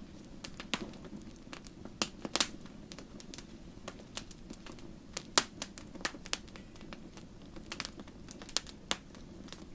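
Wood campfire crackling: irregular sharp pops and snaps over a steady low hiss of burning, with the loudest pops about two and a half and five and a half seconds in.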